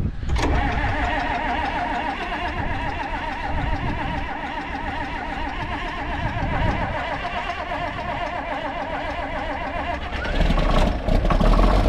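An engine running steadily, with a louder low rumble coming in about ten seconds in as an engine comes closer or is throttled up.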